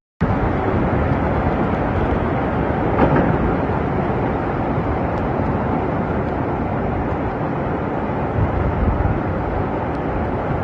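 A loud, steady rushing noise that starts abruptly just after the start, of the kind heavy rain and flood water make.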